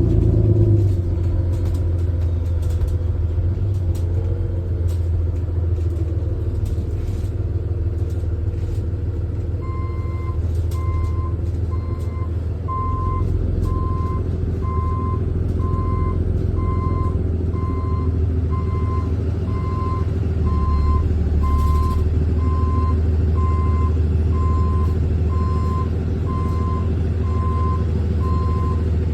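A 2018 Thomas HDX school bus engine running steadily. About ten seconds in, a reversing alarm starts beeping, about one and a half beeps a second.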